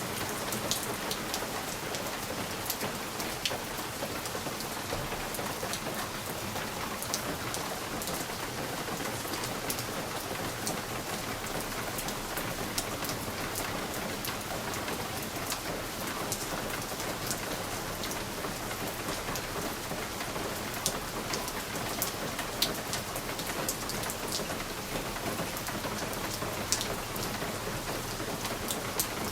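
Steady rain pattering on a window pane, a continuous hiss with scattered sharper drop ticks.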